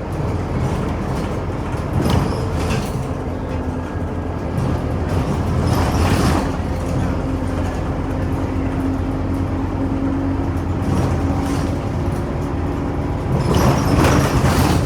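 Scania OmniCity city bus under way, heard from inside: steady engine and road noise, with three short hisses about two, six and fourteen seconds in.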